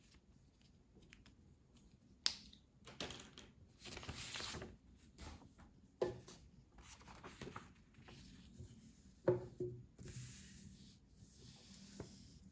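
Quiet coloring sounds: scratchy strokes and rustling of a coloring tool and paper, with three sharp clicks, like a pencil or pen being set down, about two, six and nine seconds in.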